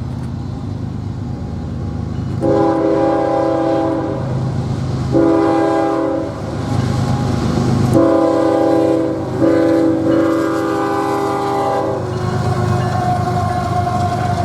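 Locomotive's multi-chime air horn sounding four blasts, the last the longest, over the steady rumble of a passing train.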